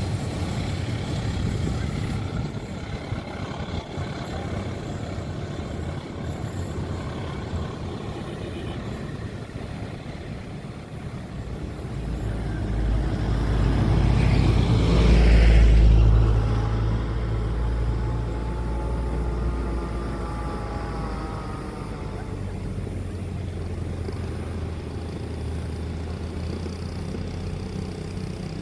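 A heavy vehicle passes close by. It grows to a loud, deep rumble about halfway through, then fades with a falling pitch, over a steady background of traffic and rumble.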